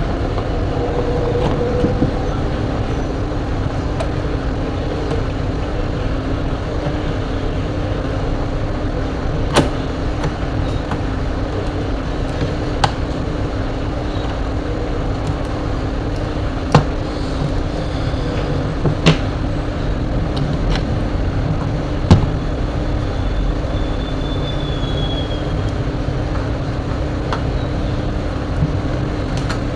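Steady low rumble with a constant hum, like traffic or machinery in the background, broken by about five sharp clicks and taps from parts being handled.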